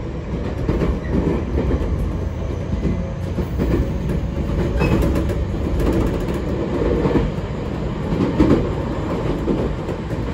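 Running noise inside a JR Kyushu 811 series electric train car on the move: a steady low rumble of wheels on rail with irregular knocks and clatter from the running gear.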